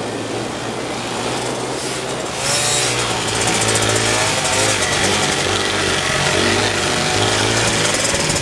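Dirt bike engine running and revving up and down, over a steady low hum.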